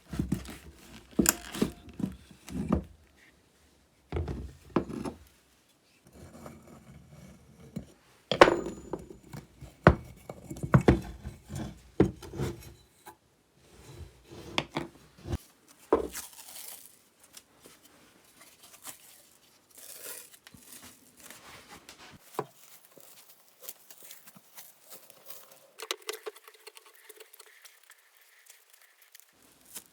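Small chainsaw parts being handled and cleaned at a workbench. A run of clinks and knocks gives way, after about a dozen seconds, to quieter scraping and rubbing strokes.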